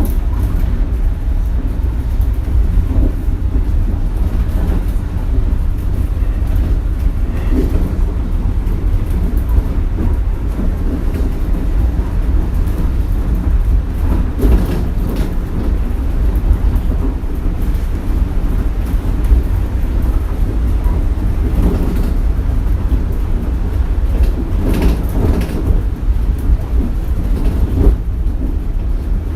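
Cabin running noise of a Shonan Monorail suspended, rubber-tyred monorail car under way: a loud, steady low rumble with scattered knocks and rattles, typical of its rough ride.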